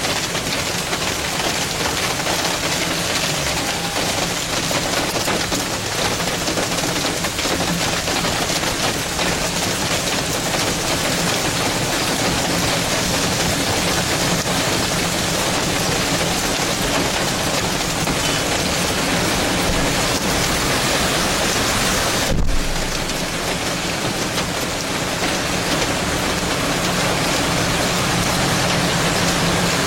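Steady, even noise of heavy rain, with a split-second break about three-quarters of the way through.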